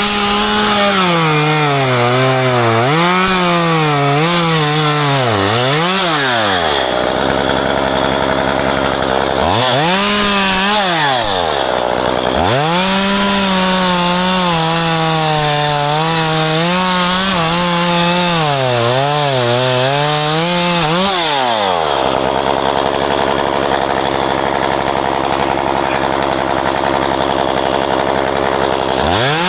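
Chainsaw cutting ficus branches, its engine pitch wavering under load for several seconds, dropping to idle, then revved back up for a longer cut of about ten seconds before settling to idle again and revving once more near the end.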